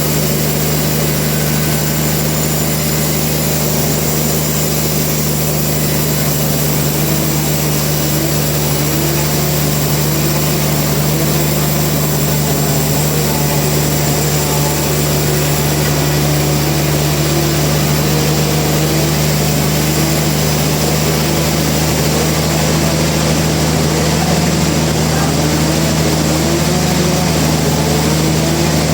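Sawmill machinery running with a loud, steady engine-like drone and a constant low hum.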